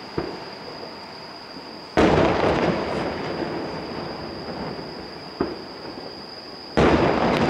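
Aerial firework shells bursting: two loud booms about five seconds apart, the first about two seconds in and the second near the end, each rumbling away with a long echo. There is a softer thump just after the start and another about five seconds in.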